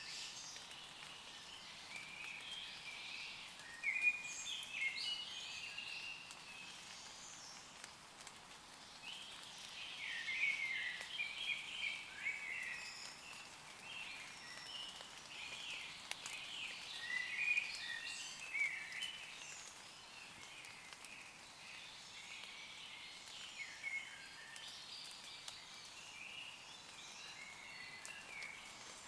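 Woodland birds singing and chirping over a steady hiss of gentle rain falling on leaves. The calls are short and overlapping.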